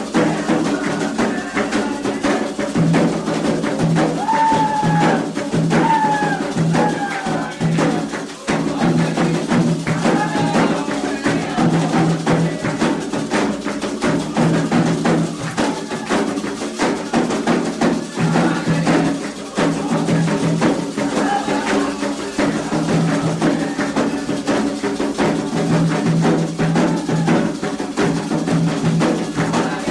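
Candomblé ritual drumming: atabaque hand drums playing a steady, continuous rhythm with a metal bell or wood-block-like timeline part on top.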